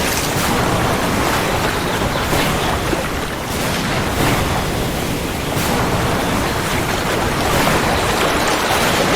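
Heavy rain falling steadily, a dense rushing noise that swells and eases slightly.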